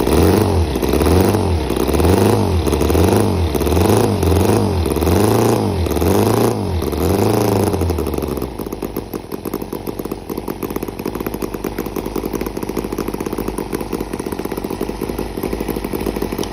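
Victoria V35 Bergmeister's 350 cc transverse V-twin engine revved in quick, repeated throttle blips, rising and falling about once every three-quarters of a second. About halfway through it drops back to a steady idle.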